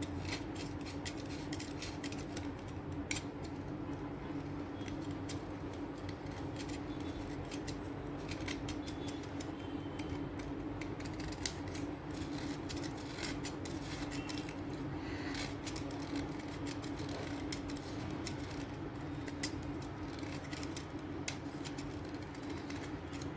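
A blade cutter slicing and scraping through sticks of chalk, making many short, irregular crisp clicks and scrapes over a steady low hum.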